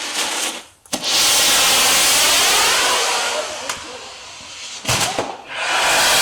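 Handmade set-piece fireworks spraying sparks with a loud steady hiss. The hiss starts with a crack about a second in, dies down for a moment past the four-second mark with a couple more pops, and then surges again.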